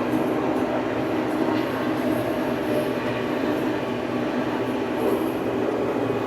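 An old farm tractor's engine running steadily.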